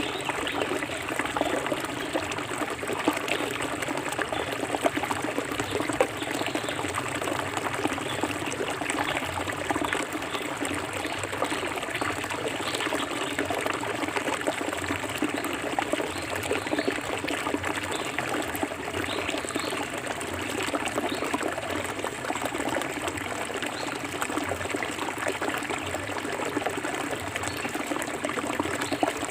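Clear forest stream flowing steadily, with a continuous trickling and gurgling of running water.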